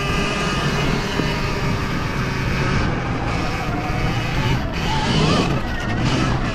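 Sur-Ron Ultra Bee electric dirt bike being ridden: the motor's whine is heard as several steady tones over a rushing noise, and the whine rises in pitch about five seconds in.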